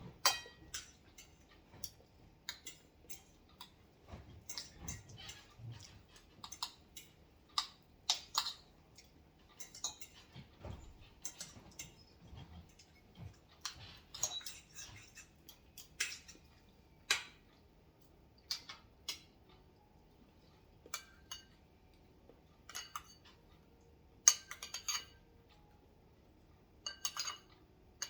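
Cutlery clinking against dishware during a meal: scattered sharp clinks every second or so, with a few quick runs of clinks near the end.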